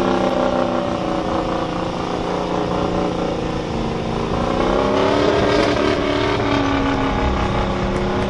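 A heavy vehicle's engine running hard at a truck and tractor pull. Its pitch sags about two seconds in, then climbs again around five seconds.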